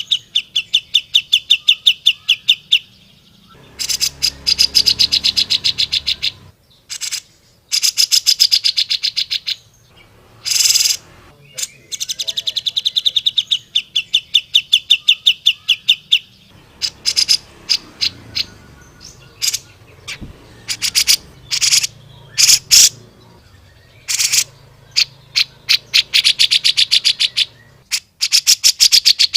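Grey-cheeked bulbul (cucak jenggot) giving its loud, aggressive 'gacor' call: rapid runs of sharp repeated notes, each burst lasting two or three seconds, separated by short gaps and scattered single notes.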